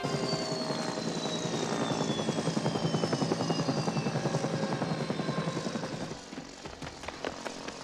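Helicopter rotor chopping in fast even beats with a turbine whine falling steadily in pitch, as the engine winds down after landing. The chopping fades about six seconds in, leaving a few light clicks.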